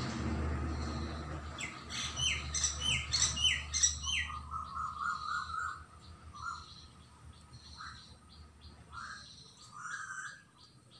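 Birds calling: a quick run of five or six sharp, falling calls, then chattering notes and a few scattered calls. A low rumble fades away over the first couple of seconds.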